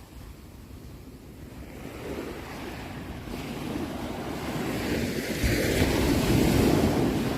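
Ocean waves: a wave builds as a rising rush of surf and breaks, loudest about five to seven seconds in, then begins to ease.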